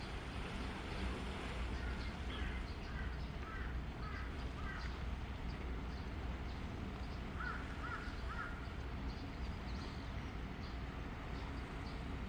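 Birds calling in short, repeated crow-like caws: a run of about five a couple of seconds in, then a quick group of three around the middle. Underneath is a steady low rumble of coastal background noise.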